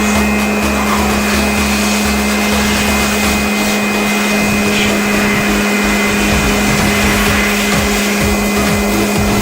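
Electric air blower running steadily while cleaning dust off a graphics card: a loud rush of air over a steady motor hum with a thin high whine.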